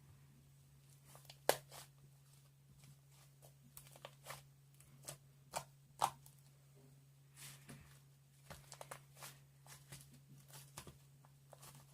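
Irregular small clicks and short crackling rustles, as of something being handled, over a steady low hum.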